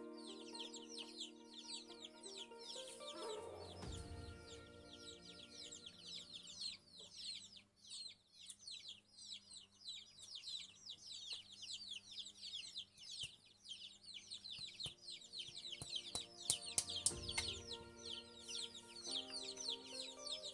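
Chickens chirping and clucking over soft background music of held chords, with a few sharp knocks near the end.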